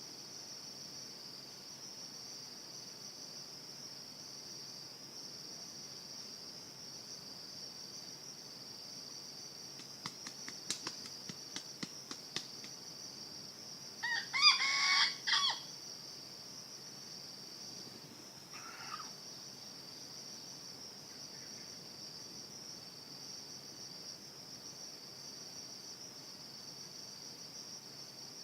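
Junglefowl rooster crowing once, a short crow about halfway through, over a steady high drone of insects. A run of sharp clicks comes a couple of seconds before the crow, and a faint short call a few seconds after it.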